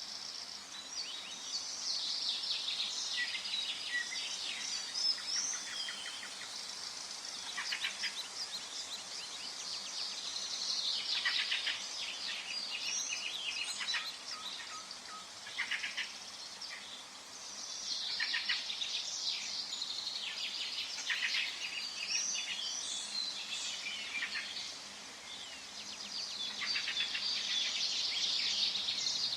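Many forest birds singing at once, a dense mix of chirps and trills that swells and fades in waves, over a faint steady background hiss.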